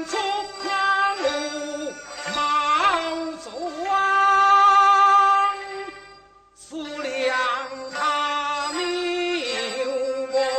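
Teochew opera singing: a single melodic vocal line with ornamented, bending notes. It holds one long note in the middle and breaks off briefly about six seconds in before going on.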